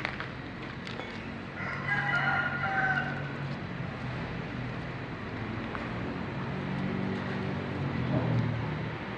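A rooster crows once, about one and a half seconds in, lasting about two seconds. Under it runs a steady low engine hum.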